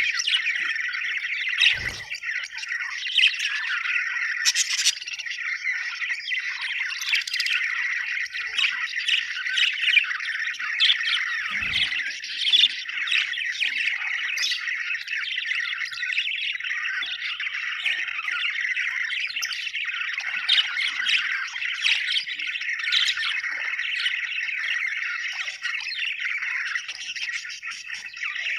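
A flock of budgerigars chirping and chattering without pause, many calls overlapping. A brief low thump comes about two seconds in and again about twelve seconds in.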